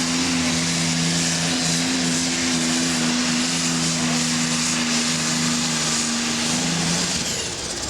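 Modified pulling tractor's engine running at full power on a pull, one loud steady note with a heavy rasp over it, dropping away about seven seconds in.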